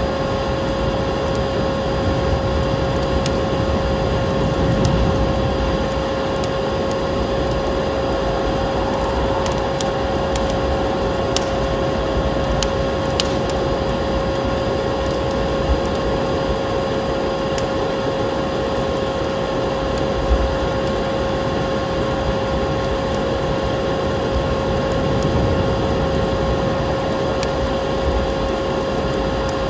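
Vacuum cleaner motor running with a steady whine, with scattered crackles and pops of a wood fire over it.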